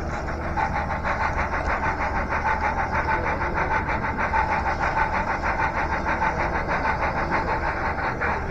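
Model train running along its track, heard from on board: a fast, even clatter of about five or six beats a second, with a steady whine joining in about half a second in.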